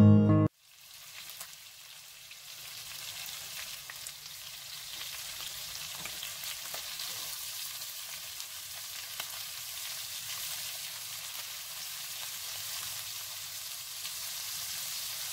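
Acoustic guitar music cuts off half a second in, giving way to seasoned chicken tenders sizzling in butter in a skillet, a steady hiss that builds over the first few seconds. A few faint clicks of metal tongs against the pan come as pieces are turned.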